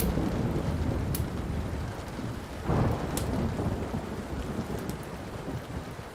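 Thunder rolling over steady rain: a rumble already going at the start, a second peal swelling about two and a half seconds in and dying away. A few sharp pops of a crackling wood fire sound over it.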